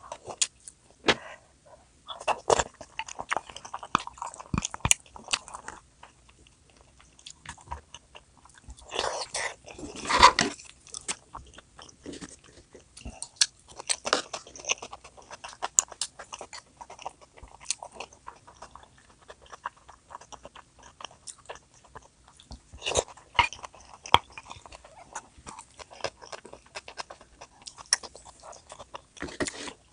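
A person biting and chewing food close to the microphone, with many small wet clicks and crunches and a louder burst of chewing about ten seconds in.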